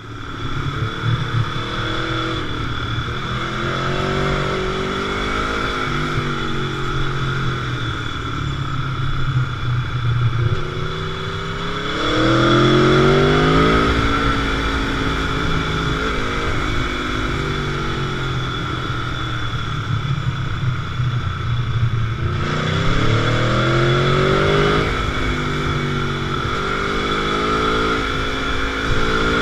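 Motorcycle engine running on the move, rising in revs under acceleration three times, about three, eleven and twenty-two seconds in, and holding steadier speed in between.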